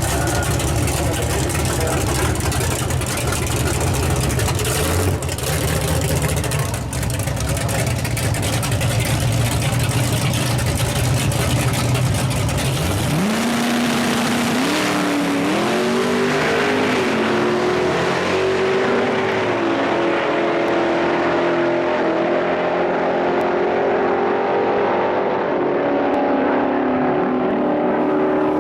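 Truck engine at a drag strip: a low, rough rumble. About halfway through, the pitch climbs in steps as it accelerates hard, then holds high and steady.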